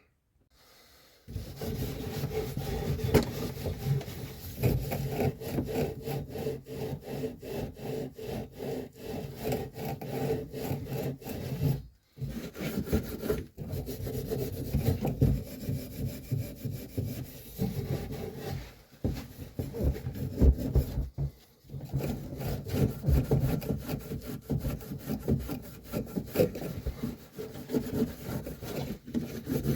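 Fast, repeated rasping strokes of a hand tool, sawing or rubbing, broken by a few short silences.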